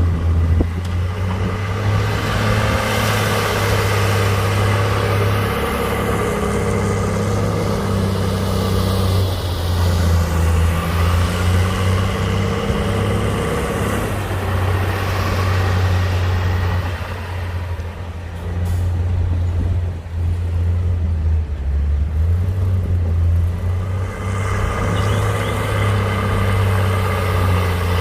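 Heavy diesel engine of earthmoving machinery running steadily under load, its pitch shifting now and then as the work changes; it is a little quieter for a few seconds past the middle.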